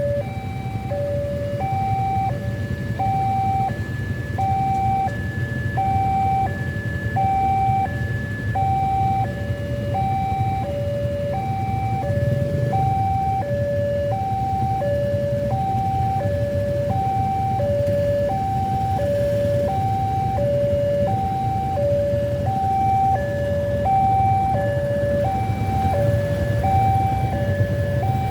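Railway level-crossing warning alarm sounding its two-tone signal, a higher and a lower tone alternating at about one pair a second without a break, while the barriers are down for an approaching train. A low rumble runs underneath.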